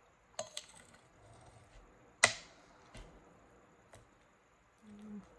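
A few scattered sharp clicks and taps, the loudest one just over two seconds in, with a brief low hum near the end.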